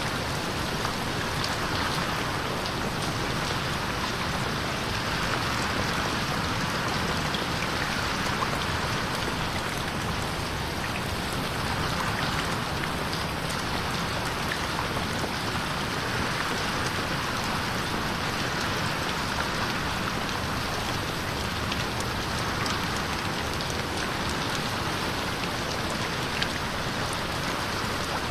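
Steady rain falling on a window, with scattered small drop ticks. The sound slowly swells and fades every few seconds, as in an 8D panning effect.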